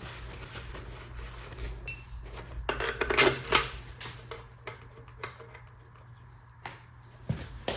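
Metal tools and engine parts clinking and clattering during work on a Ford 5.0 V8's cylinder head. There is a single ringing clink about two seconds in and a busier run of clatter about a second later, over a steady low hum.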